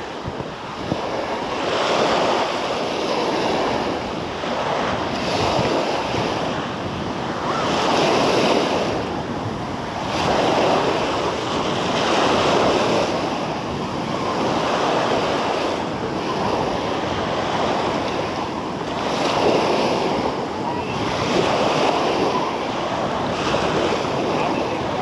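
Small sea waves washing onto a beach, the noise swelling and easing every two to three seconds, with wind buffeting the microphone.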